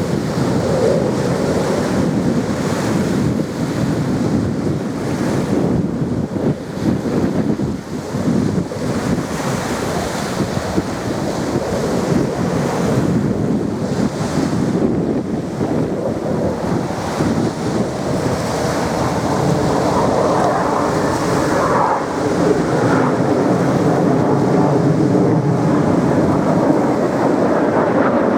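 Jet aircraft engines of an aerobatic display team heard from the ground, a loud continuous rush of engine noise that swells and eases as the jets manoeuvre, with wind buffeting the microphone.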